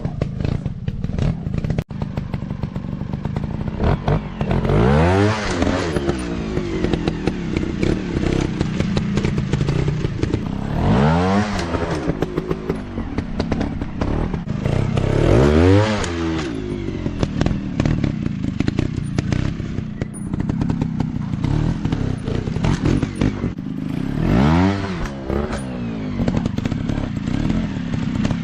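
Dirt bike engine running and being revved up and let back down in bursts, about four times.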